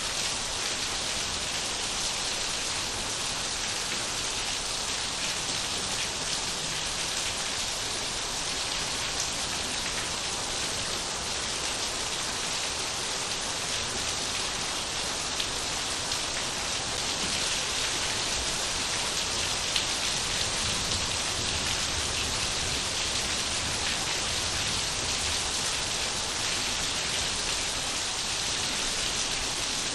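Steady rain falling on surfaces, an even hiss of many drops with occasional louder individual drop ticks.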